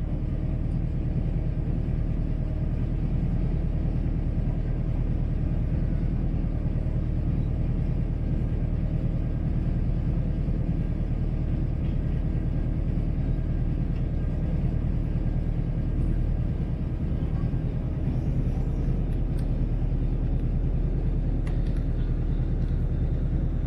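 Motor boat's engine running steadily, an even low drone with no change in speed.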